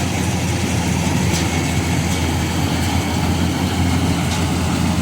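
Combine harvester's diesel engine running steadily with a constant low drone.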